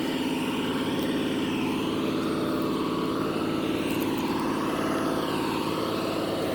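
Vehicle engine running steadily at a constant speed: a continuous, even drone with no change in pitch.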